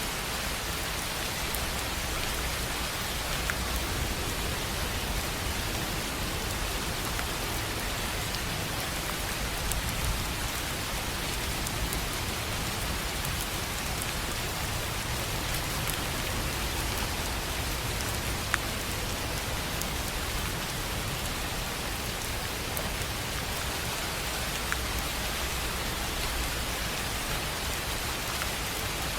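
Steady rain on a tin roof: an even hiss, with a few sharper single drops ticking now and then.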